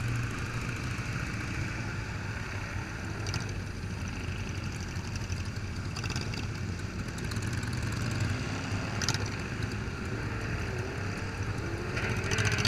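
Motorcycle engines idling steadily, with a few short clicks.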